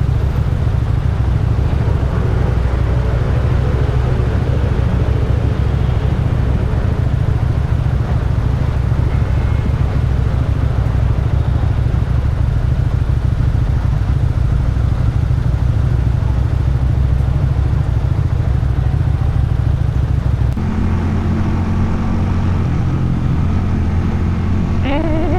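A motorcycle engine and exhaust running steadily while being ridden. About twenty seconds in the engine note drops to a lower, steadier running sound.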